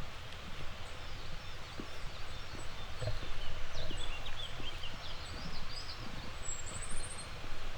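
Small songbirds chirping in short calls, with a brief high trill about three-quarters of the way through. A steady background rush and faint footsteps walking at a regular pace run underneath.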